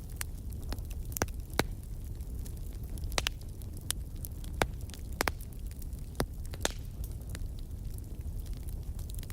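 Fire crackling: a steady low rumble broken by irregular sharp pops and snaps, a few a second.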